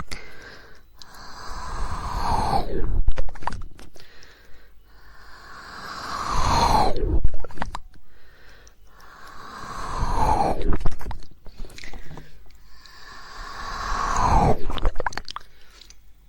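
Close-miked ASMR mouth sounds: wet tongue-flicking and mouth noises that come in swells about every four seconds. Each swell grows louder and then slides down in pitch, with sharp clicks in between.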